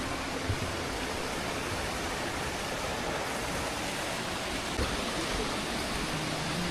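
Rushing water of a mountain stream in a rocky valley, a steady, even noise with no change.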